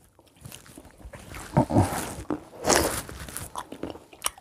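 Grapes being bitten and chewed straight off a plate without hands, heard as irregular crunches, bites and chewing noises.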